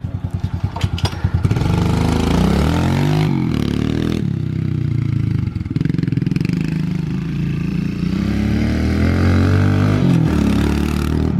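Pit bike engine running close by, choppy and uneven for the first second or so, then revved up and down several times.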